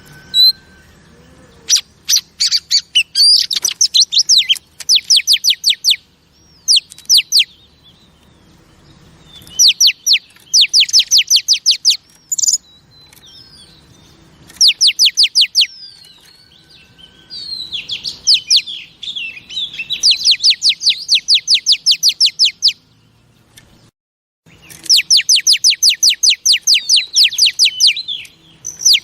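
Female Oriental magpie-robin calling in fast rattling runs of repeated high notes, each run lasting a second or three, with short pauses and a few whistled notes between them. The sound cuts out briefly about three quarters of the way through. This is the female's call that keepers play to excite male magpie-robins.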